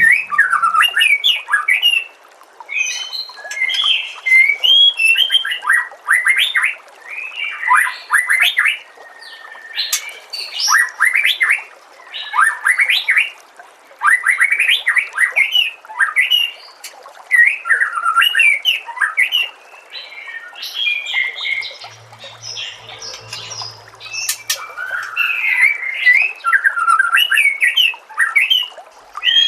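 White-rumped shama (murai batu) singing: loud, fast phrases of varied whistles, trills and chirps, one after another with brief pauses between them, over a steady background hiss.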